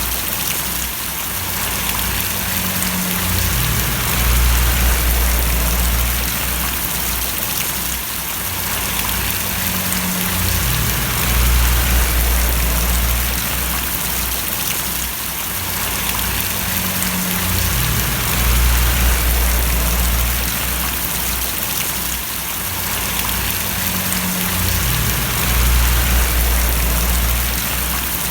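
Steady rain splashing: an even hiss of falling drops. Under it, a low rumble swells and fades about every seven seconds.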